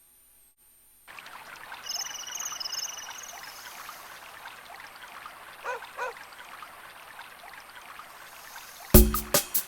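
River water flowing steadily, starting about a second in, with a bird trilling high for a second or so and a couple of short lower chirps later on. Music cuts back in near the end.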